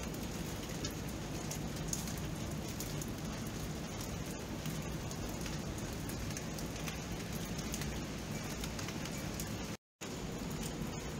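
Steady rain falling: an even hiss with scattered sharper drop ticks. The sound drops out to silence for an instant near the end.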